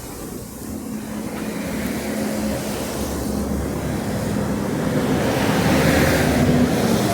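A motor vehicle passing close by, its engine and tyre noise building up to a peak about six seconds in and then falling away.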